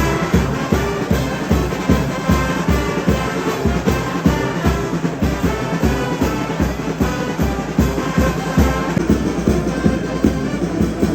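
Brass band music with a steady, driving drum beat.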